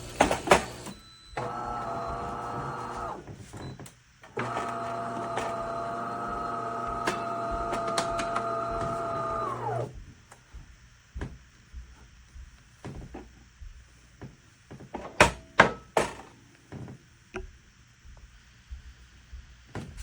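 De'Longhi Magnifica Start espresso machine running its internal motor or pump in two steady humming stretches, a short one and then a longer one of about five seconds that cuts off. A few sharp knocks come before, and clicks and knocks after, the loudest a little past the middle.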